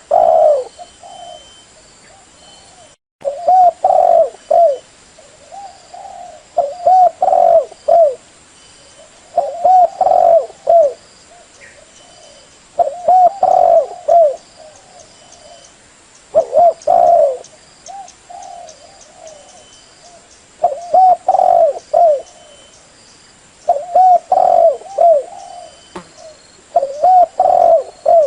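Spotted dove (cu gáy) cooing, a decoy bird's call used to lure wild doves: a phrase of several rolling coos repeated about every three to four seconds, nine phrases in all.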